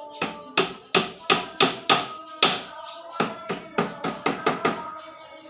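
A quick series of about fifteen sharp taps over some four and a half seconds, over steady background music.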